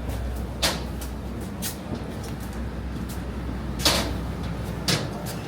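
Four sharp clunks over a steady low hum, spaced one to two seconds apart, the loudest about two-thirds of the way in.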